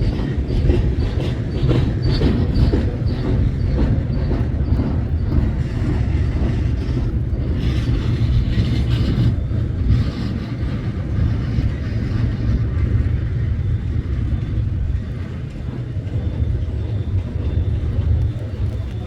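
Freight train passing, a steady heavy low rumble with rapid clicking of wheels over rail joints in the first few seconds.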